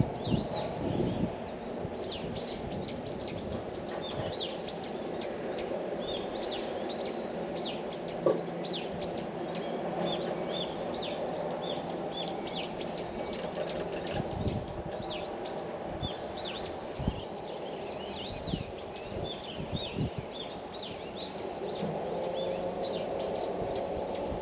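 Many small birds chirping busily, with short high calls that sweep down in pitch several times a second, over a steady low background hum. There are a few soft knocks.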